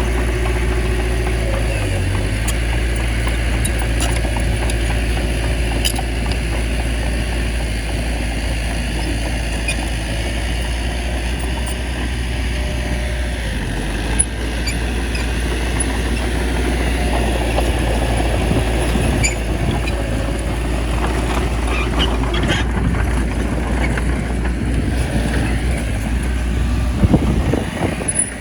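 Small bulldozer's diesel engine running steadily, with a single sharp knock about halfway through and a few clanks near the end.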